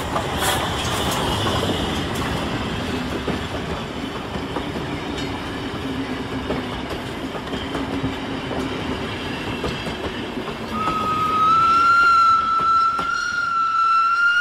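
A train running, with a steady rumble and clatter over the rails. About eleven seconds in, a long held horn-like note starts, wavering slightly in pitch.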